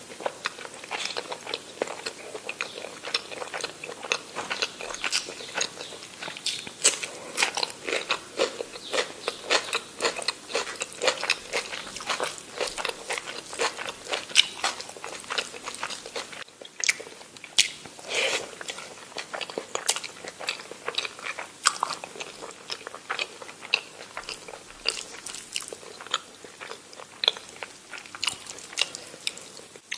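A person chewing and biting food close to the microphone, a steady run of small crunches and clicks with a brief pause about sixteen seconds in.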